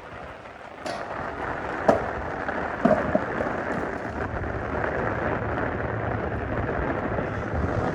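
Skateboard wheels rolling on wet concrete, a steady rushing noise, with three sharp knocks of the board near the start, about a second apart.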